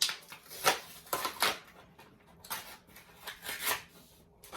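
Toy figure packaging being handled and opened: irregular crackles and scrapes of plastic and card, a few sharper ones about a second and a half in and near the three-and-a-half-second mark.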